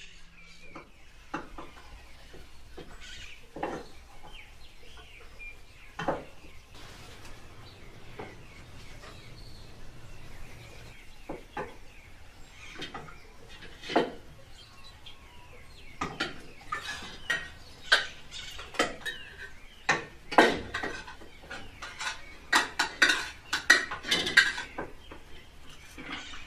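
Cutlery and serving spoons clinking and scraping against plates and a cooking pot during a meal. The clinks are scattered at first and come thick and fast in the last third.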